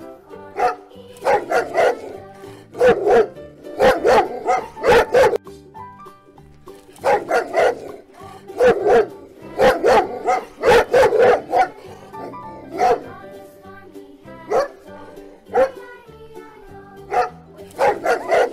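A dog barking repeatedly in short runs of barks over light background music.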